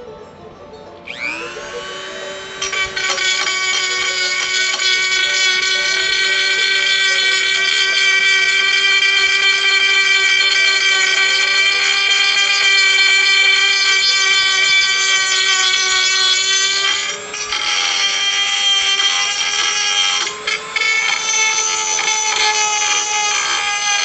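Bench drill press driven by a treadmill motor, spinning up about a second in and then running with a steady whine. The pitch drops in two steps in the last few seconds, and the motor spins down at the end.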